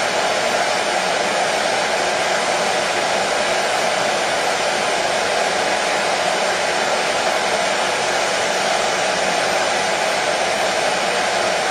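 Hair dryer running steadily: an even, unbroken whooshing with a faint low hum, played as white noise to soothe a colicky baby to sleep.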